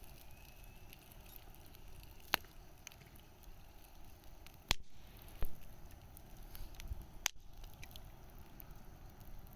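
Wood bonfire crackling over a low, steady hiss, with a few sharp, irregular pops, the loudest near the middle.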